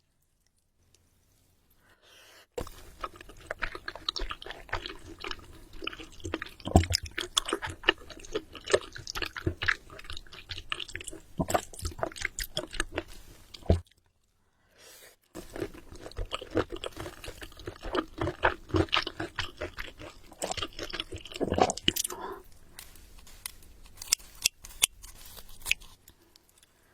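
Close-miked eating: chewing and biting food, with crackly, crunchy and wet mouth clicks. It starts after a couple of seconds of near silence and drops out briefly about halfway through.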